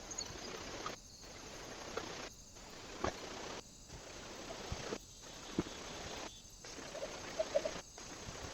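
Steady hiss from a trail camera's microphone, broken into short stretches about a second long by brief gaps, with scattered faint taps and clicks.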